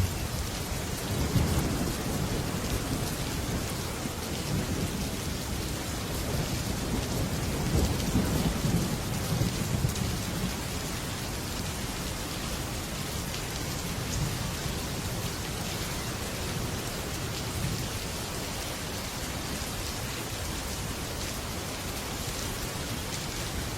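Heavy rain drumming steadily on a metal roof, with low thunder rumbling in swells, strongest about a second in and again from about seven to ten seconds.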